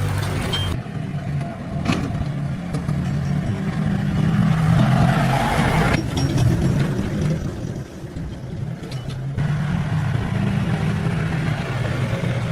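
A vehicle engine running, mostly steady, with a brief rise in engine speed a little before the middle. The sound changes abruptly a few times.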